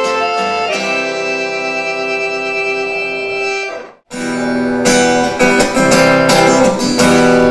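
Live accordion and acoustic guitar hold the final chord of a sertanejo song, which cuts off abruptly about four seconds in; strummed acoustic guitar chords with held notes start straight after.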